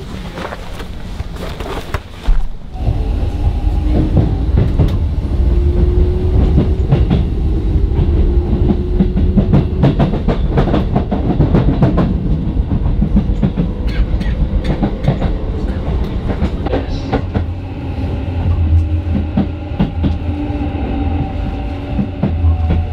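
Train running on rails: a heavy low rumble with rapid clicks of the wheels over the track and a few faint steady whining tones. The rumble comes in abruptly about two and a half seconds in.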